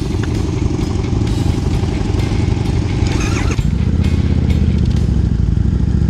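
Harley-Davidson V-twin motorcycle engine running, its note changing about halfway through. A brief higher-pitched sound shows just before the change.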